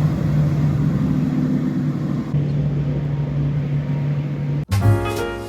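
Motorboat engine running steadily as a boat passes, a low even drone over a haze of wind and water noise. It cuts off abruptly near the end and piano music begins.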